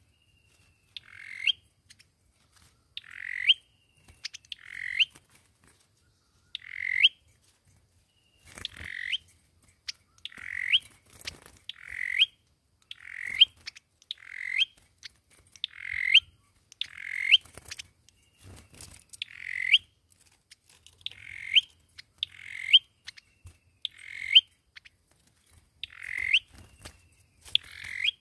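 Sâu dừa bird calling over and over, a short harsh call about every second or so, each ending in a sharp rising note; the kind of recording played as a lure call for trapping.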